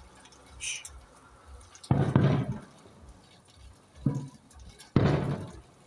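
Three sudden firework bangs: two strong ones about two and five seconds in, each dying away over about half a second, and a shorter, weaker one just after four seconds.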